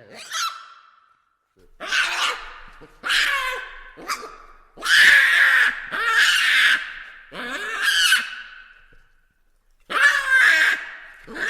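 Baboons screaming and calling: a string of harsh, high-pitched calls, some running straight into one another, with short silent gaps between them.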